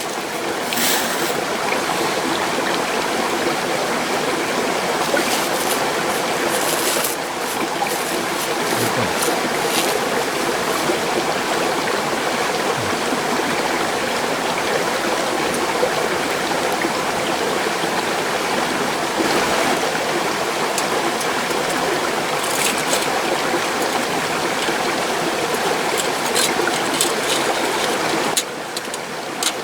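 Mountain stream rushing steadily over rocks, a constant water noise with a few light clicks now and then.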